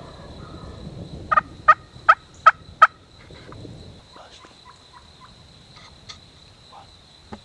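A series of five loud, evenly spaced turkey yelps about a second in, then a few faint short notes, over a steady high insect trill.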